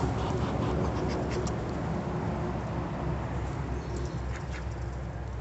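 Farmyard poultry, ducks and hens, making a few faint short calls and scratchy sounds over a steady low rumble.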